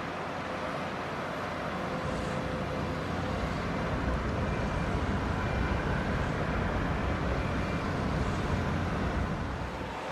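Jet aircraft engines running with a steady rumble and a faint whine. The rumble grows louder about four seconds in and eases off near the end.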